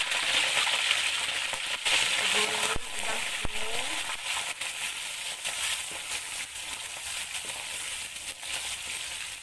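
Prawns deep-frying in hot oil in a wok, a steady sizzle, stirred with a wooden spatula. The sizzle is loudest for the first few seconds and then settles a little.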